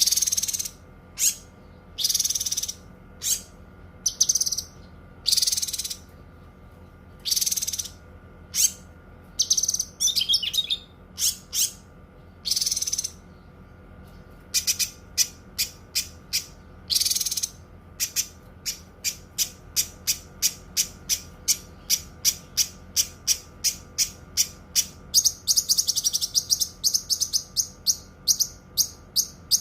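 Cucak kinoi singing: harsh, buzzy high-pitched calls of half a second to a second each in the first half, then a long run of short sharp chirps, about two to three a second, packed into a fast trill for a couple of seconds near the end.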